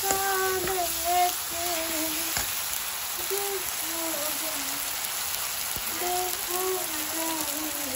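Onion-tomato masala frying in hot oil in a kadhai, a steady sizzle, while a woman's voice hums a tune in short wordless phrases.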